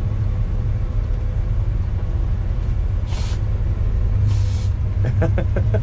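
Running 350 V8 and road noise of a 1957 Chevrolet 3100 pickup, a steady low rumble. About three seconds in come two short hisses of air a second or so apart, the air-ride suspension's valves letting air out of the bags.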